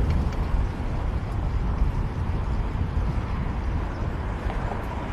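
Steady wind rumble buffeting the microphone of a camera riding along on a moving fixed-gear bike, with faint road noise underneath.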